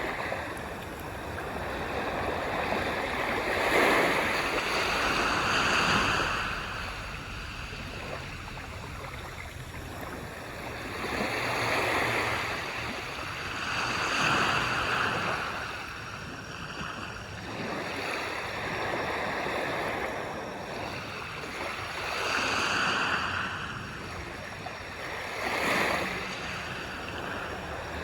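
Small waves breaking and washing up on a sandy shore, each wash swelling and fading again every few seconds.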